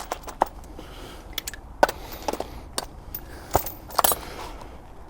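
Irregular metallic clicks and clanks, about eight sharp knocks spread over a few seconds, from hand tools and the steel side stand of a small motorbike being worked as the stand is refitted.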